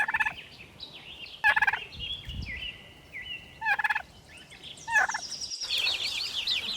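Domestic turkey gobbling in four short rattling calls about every one to two seconds, with lighter high chirping between them. Near the end the sound changes to a dense high-pitched peeping.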